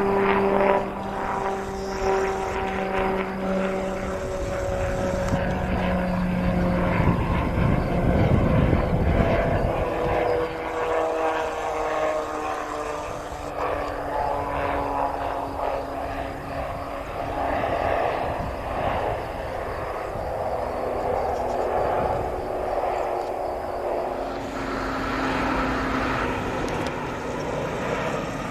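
Piaggio P180 Avanti's twin pusher turboprops passing on its landing approach, the propeller tones sliding slowly down in pitch as it goes by.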